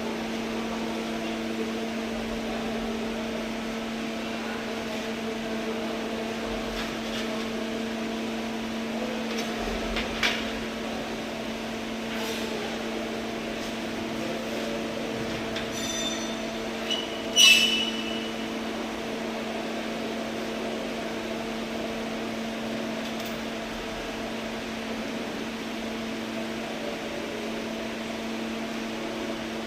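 Steady electrical hum of a welding machine, with a sharp metallic click about ten seconds in and a louder ringing clank of metal about seventeen seconds in.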